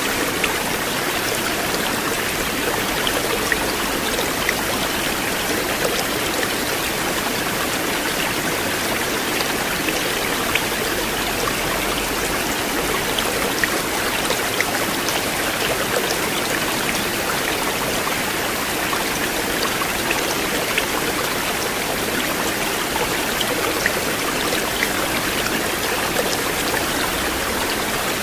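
River water flowing: a steady, even rush with scattered small splashes and drips.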